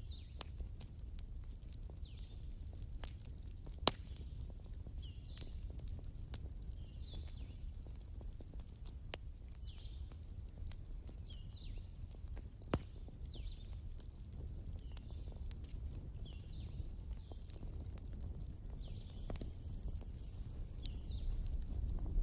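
Wood fire crackling, with a low steady rumble and scattered sharp pops, the loudest about four seconds in. Faint high chirps come and go above it throughout.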